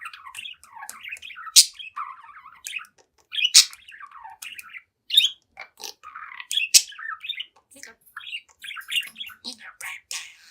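Young budgerigar warbling and chattering continuously, a rapid run of varied chirps and squawky notes. A few sharp, loud clicks cut through it, the loudest about a second and a half, three and a half and nearly seven seconds in.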